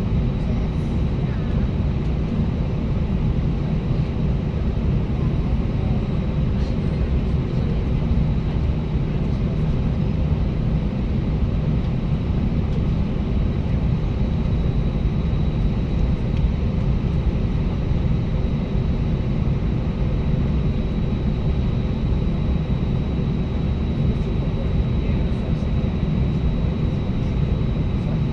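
Airbus A320's IAE V2500 engines heard from inside the cabin: a steady low rumble and hum with a faint high whine above it, unchanging throughout.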